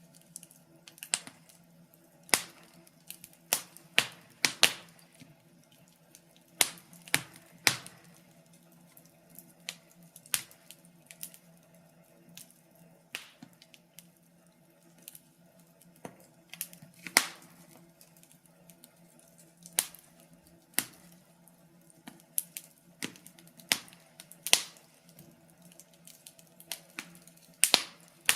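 Wood fire crackling in a fireplace: irregular sharp pops and snaps from the burning logs, a few much louder than the rest, over a faint steady low hum.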